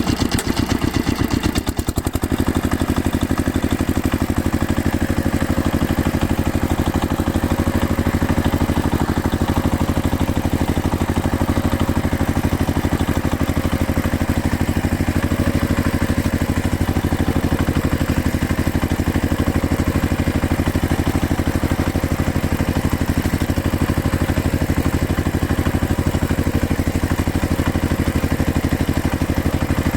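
Tractor engine running steadily, with a fast, even firing beat.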